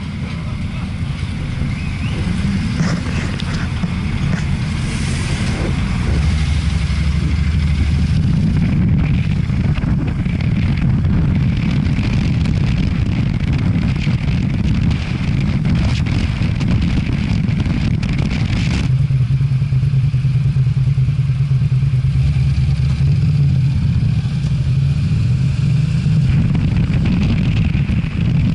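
Motorcycle engine running in traffic, with wind rushing over a helmet-mounted camera. About two-thirds of the way through, the wind hiss drops away and the engine settles to a steady low hum, as at slow speed or idle.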